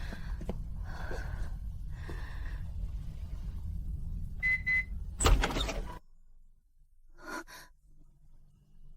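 Steady low car rumble, with a short electronic beep about four and a half seconds in and then a car door shutting. After that the rumble cuts out, and a brief faint double knock follows.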